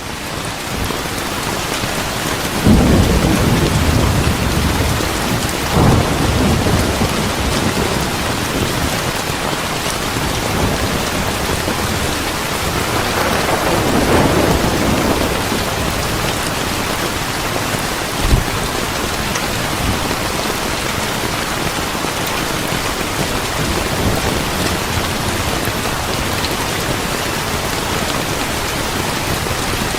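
Steady heavy rain with thunder: low rolling rumbles swell about three, six and fourteen seconds in, and a short sharp clap comes about eighteen seconds in.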